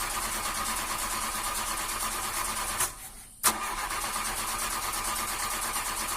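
A car engine cranking on its starter without catching. It cuts out briefly about three seconds in, then the cranking starts again.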